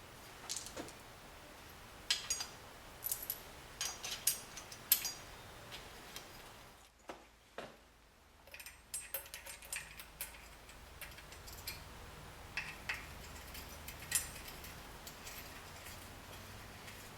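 Light metal clinks and clicks, scattered and irregular, from metal parts being handled and fitted together as a cylinder head is assembled onto a machining fixture.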